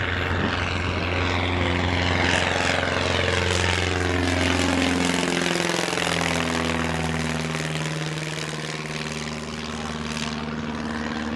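Small propeller airplane flying past, its engine and propeller drone falling in pitch as it goes by around the middle.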